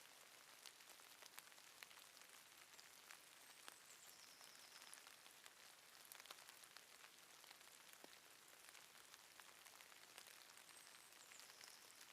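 Faint light drizzle: a steady patter of rain with scattered drop ticks. Twice a faint, short, high chirp comes through it.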